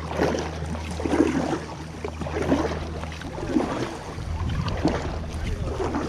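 Kayak paddle strokes through the water, a splash about once a second, over a steady low rumble of wind on the microphone.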